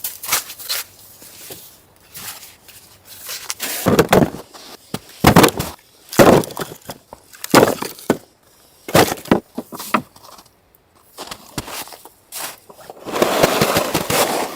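A run of loud, sharp knocks at uneven intervals, roughly one a second through the middle stretch. Near the end a steady rustling sets in.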